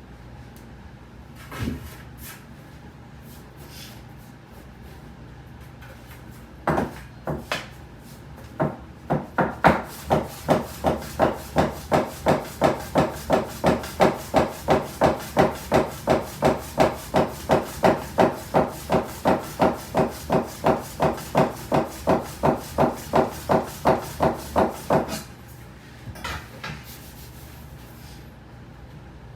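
Soba knife chopping through folded buckwheat dough onto a wooden cutting board, a steady rhythm of sharp knocks at about two and a half strokes a second. A few single knocks come before the rhythm starts, and it stops a few seconds before the end.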